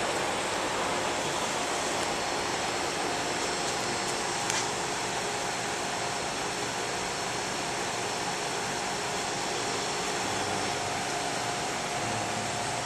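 Rheem two-stage heat pump outdoor units running: a steady rush of condenser fans with a faint steady hum-tone. There is a single small tick about four seconds in.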